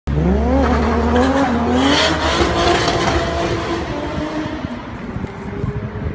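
Car engine revving hard as the car accelerates: its pitch climbs over the first two seconds, then holds and slowly fades, under rough loud engine and tyre noise.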